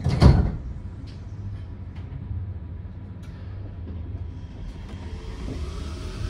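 Yurikamome rubber-tyred automated train running, heard from inside the carriage: a steady low rumble, with a brief loud rush and thump right at the start.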